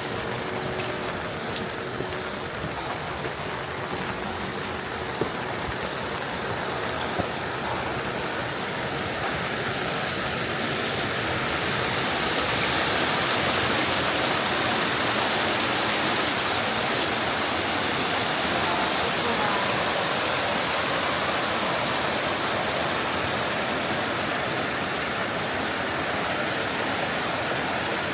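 Steady rain with scattered drop clicks, joined from about ten seconds in by the louder, fuller rush of a flowing mountain stream that stays up for the rest of the stretch.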